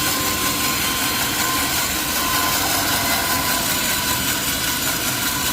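Sawmill machinery running steadily: a constant mechanical drone with a steady high whine over it.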